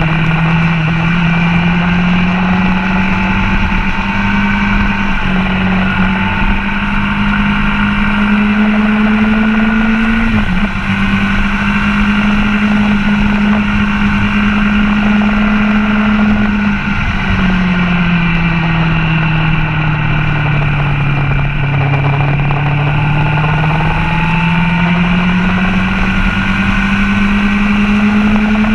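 Motorcycle engine running hard on a track lap, its pitch climbing slowly through the gears, with a brief break about ten seconds in and a drop near seventeen seconds before it falls further and builds up again.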